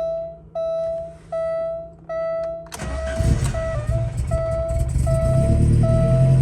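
The car's warning chime repeats about every three-quarters of a second. About three seconds in, the 1989 Alfa Romeo Spider's twin-cam four-cylinder engine cranks and catches on a cold start. It then runs, its note rising and growing stronger, while the chime keeps sounding.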